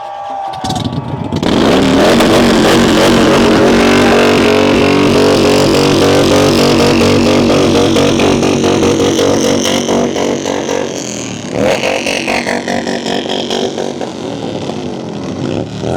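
Motorcycle engines revving together, loud and sustained, with a couple of rising revs near the end.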